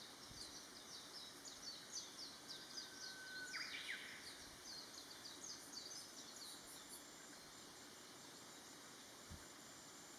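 Faint distant bird song: a run of quick, high chirping notes for the first several seconds, with one held lower note about three seconds in, then quiet outdoor background.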